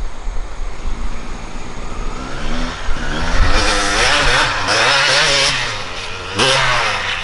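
Two-stroke dirt bike with a Honda CR250 engine, revving as it rides. A low rumble at first, then the engine pitch climbs from about two and a half seconds in and rises and falls through the gears, with a short dip and a fresh rev near the end.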